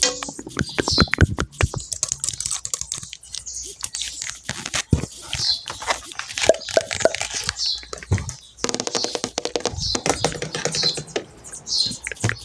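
Rapid keyboard-typing clicks, the typing sound effect of a simulated text chat, with short falling high tones every second or two.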